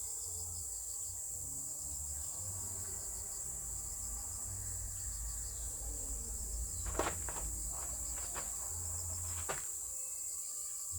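Insects chirring in a steady, high-pitched chorus, with a low rumble underneath and a few short knocks: a cluster about seven seconds in and one more about nine and a half seconds in.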